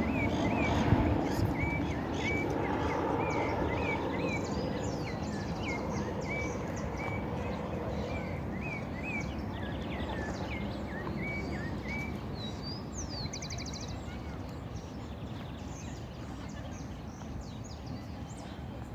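Birds chirping: many short, quick, hooked calls, with a few higher whistles among them, thinning out after the first half. Under them runs a steady low rumble of outdoor background noise.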